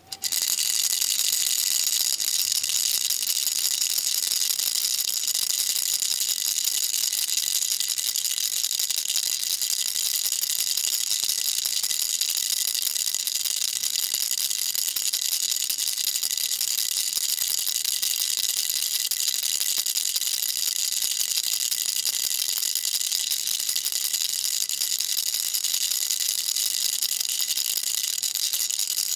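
Baby rattle shaken continuously: a dense, even, high-pitched rattle of small pellets inside a hollow shell, with no pauses.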